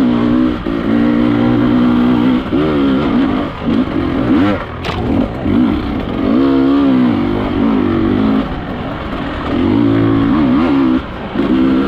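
Enduro dirt bike engine revving unevenly, its pitch rising and falling over and over with the throttle as it is ridden over rough ground. A single sharp knock sounds about five seconds in.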